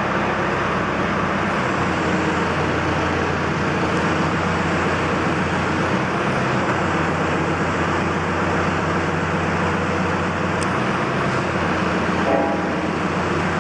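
Steady mechanical running noise with a low hum. A short set of higher tones sounds about twelve seconds in.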